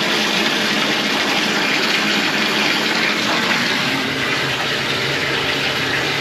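Water running in a steady, even rush.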